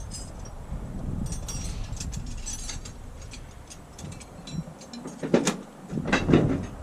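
Low rumble of outdoor noise with scattered light clicks, and a few louder knocks about five to six seconds in.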